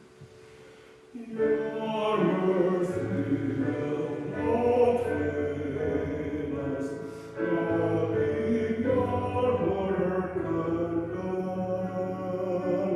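A hymn sung with instrumental accompaniment. After a short pause, the singing and sustained low notes come in about a second in and carry on steadily.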